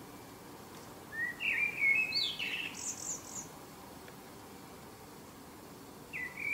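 A small songbird singing: a quick phrase of chirps and trills about a second in, and another phrase starting near the end, over a steady low outdoor hiss.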